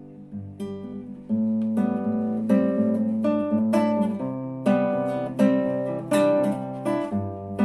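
Acoustic guitar playing plucked and strummed chords, getting fuller and louder about a second in.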